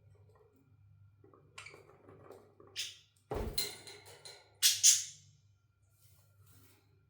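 A thump about three seconds in, followed by two sharp, rattly clacks a moment later, with a few fainter clicks around them: objects being handled and set down.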